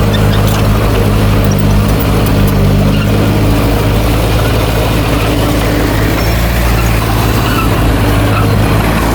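Heavy diesel engine of earthmoving equipment running steadily, with a loud low drone that holds an even pitch.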